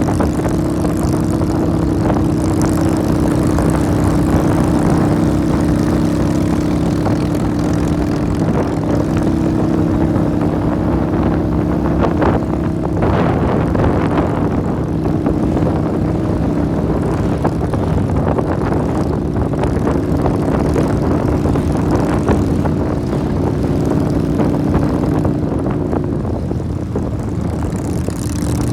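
Motorcycle engine running at a steady cruising speed, with wind rushing past. The engine pitch shifts slightly near the end.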